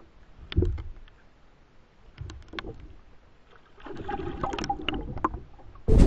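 Knocks and clattering handling noises aboard a small fishing boat: a knock about half a second in, a few lighter clicks, then a rustling, clattering stretch about four seconds in. Wind hits the microphone suddenly at the very end.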